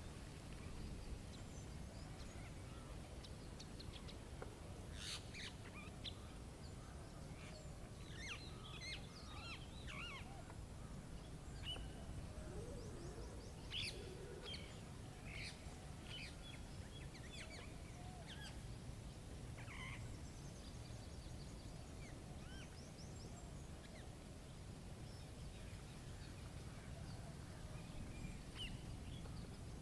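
Faint birdsong: scattered short chirps and trills from several birds, busiest in the first two-thirds, over a steady low background rumble.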